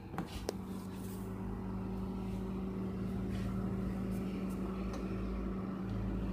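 Freezer running: a click or two, then a steady low electric hum that lasts several seconds.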